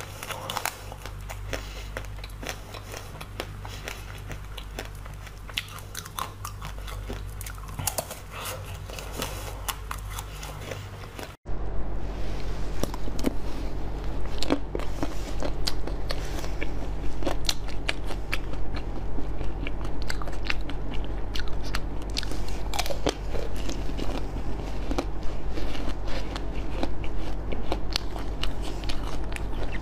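Close-miked biting, crunching and chewing of pink-coated strawberries, then, after a sudden cut about eleven seconds in, louder crunching and chewing of frozen, frost-covered strawberries.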